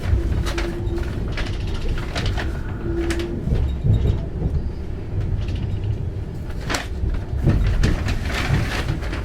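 Running noise of a moving passenger train heard from inside the carriage: a steady low rumble of wheels on track with scattered knocks and rattles. Two brief steady tones sound in the first few seconds.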